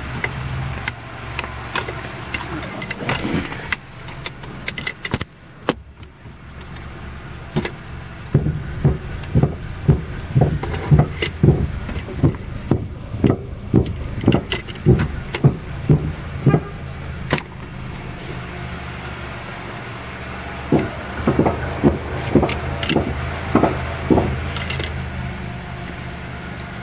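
Repeated clunks, about two a second, from a faulty Raceland coilover strut, over a steady low engine hum. They come in two runs, the second starting about twenty seconds in.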